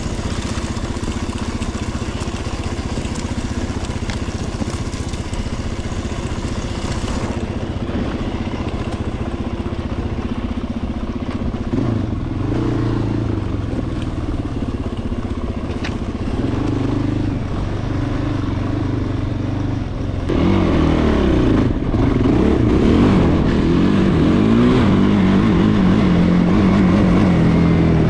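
Small off-road vehicle engine running, steady at first. From about twelve seconds in its pitch rises and falls as the throttle is worked, and from about twenty seconds in it is louder, revving up and down repeatedly.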